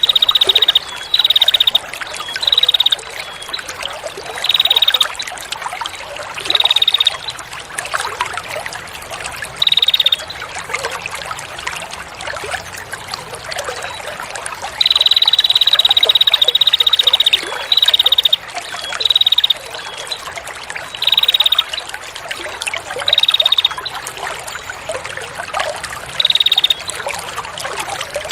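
A songbird's rapid buzzing trill, given over and over: a long trill at the start and another midway, with short bursts every second or two between, over steadily trickling water.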